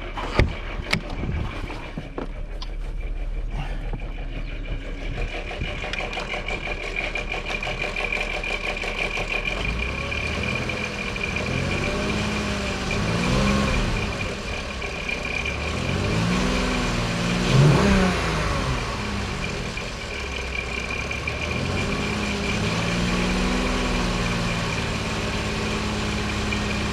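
2002 Volkswagen Eurovan VR6 engine idling with the rattle that Seafoam has not quieted, then revved up and let back down to idle several times, with the loudest rev about two-thirds of the way in. The rattle goes quiet when revved and returns at idle.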